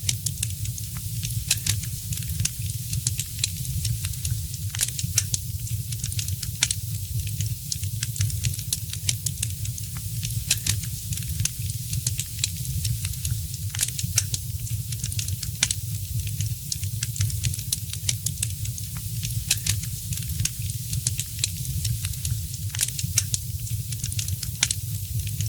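Wood fire in a fireplace crackling, with many sharp irregular pops and snaps over a soft hiss and a steady low rumble underneath.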